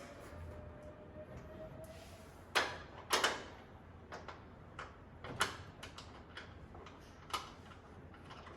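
A handful of sharp metallic clicks and knocks, spaced a second or two apart, as a new sheet-metal panel is fitted and bolted onto a truck.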